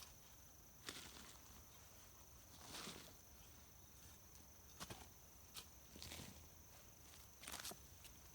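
Near silence: a steady faint high hiss with a few brief soft rustles spread through it.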